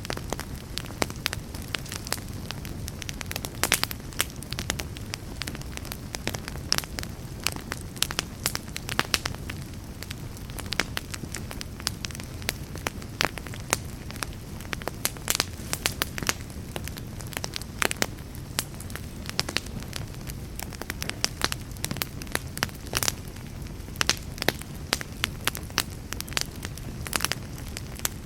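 Wood fire burning in a fireplace: logs crackling and popping with many sharp irregular snaps over a steady low rumble of the flames.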